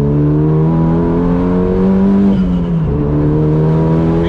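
Renault Clio track car's swapped-in Megane RS 2.0 turbo four-cylinder engine under hard acceleration, its note rising steadily. About two and a half seconds in, the pitch dips briefly for a gear change, then climbs again.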